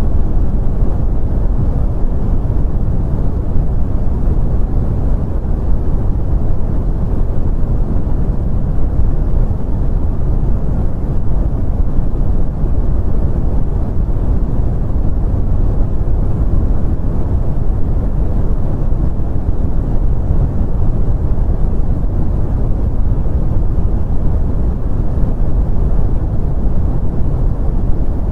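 Continuous brown noise: a steady, deep rumbling hiss, strongest in the bass and falling away toward the treble, unchanging throughout.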